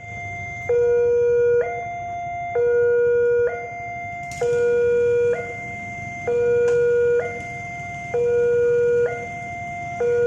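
Railway level-crossing warning alarm sounding a steady two-tone pattern. Two pitches take turns about once a second, and one of them is markedly louder.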